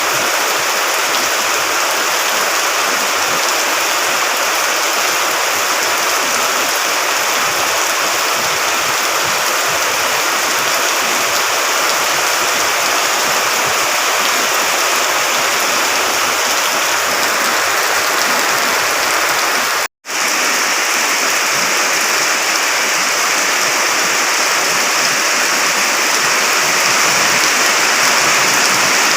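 Water rushing steadily in a loud, even hiss. The sound cuts out completely for a moment about twenty seconds in.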